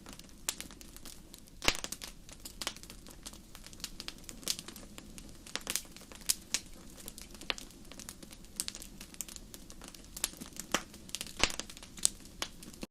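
Burning wood fire crackling: irregular sharp pops and snaps, several a second, over a faint steady low hum.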